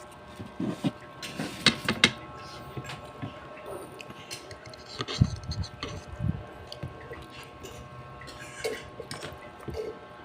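Cutlery clinking and scraping on a plate during a meal of palabok noodles, with scattered sharp clinks, the loudest about two and five seconds in.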